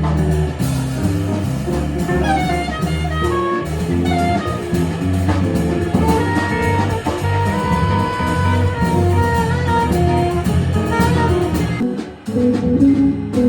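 Jazz quartet playing live: a melody line over drum kit and bass. About twelve seconds in the full band briefly drops away and a different, more chordal passage begins.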